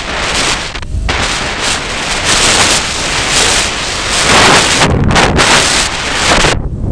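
Strong, gusty wind buffeting the microphone: a loud rushing that swells and eases, with brief lulls about a second in and near the end.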